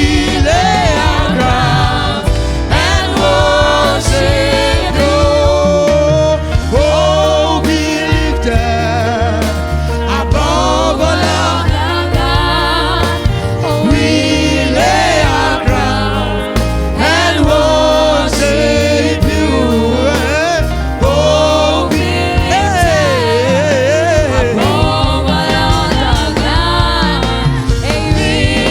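Gospel worship music: a singing voice carrying a melody over a band with strong bass.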